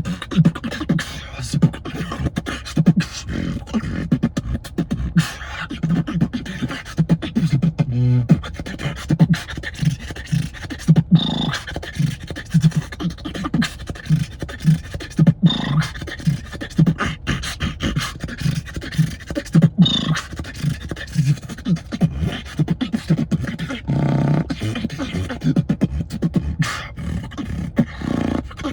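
A person beatboxing: a fast, steady rhythm of mouth-made kick drums, snares and hi-hat clicks, with a short held bass tone about 8 seconds in and again near 24 seconds.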